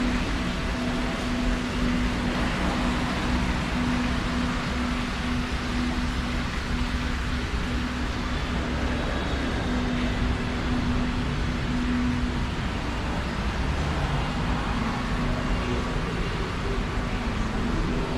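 Steady city street traffic noise from passing cars, with a low hum running under it that drops out briefly now and then.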